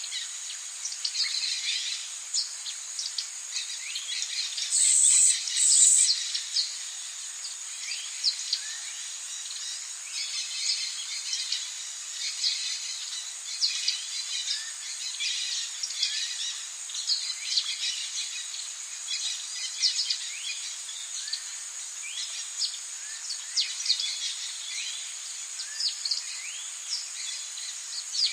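Rainforest ambience: a steady high insect drone with many birds chirping and calling over it. About five seconds in comes a louder, shrill two-part call.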